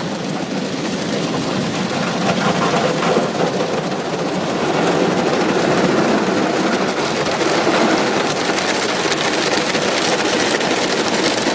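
Automatic car wash working over the car, heard from inside the cabin: a dense, steady rush of water spray drumming on the body, growing louder about halfway through.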